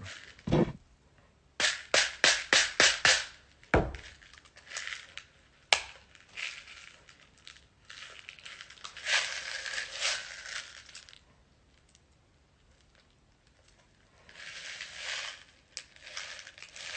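Handling and loading a BB gun's magazine: a quick run of about seven sharp clicks, a thud, a single click, then two stretches of rattling and rustling.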